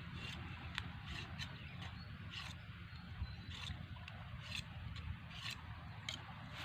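Knife shaving a bamboo stick in short, irregular scraping strokes, about two a second, over a low rumble.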